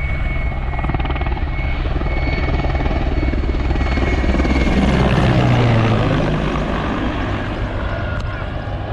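Patrol helicopter flying past along the shore: steady rotor chop and engine hum that swell to their loudest about five seconds in, the pitch dropping as it passes, then fading away.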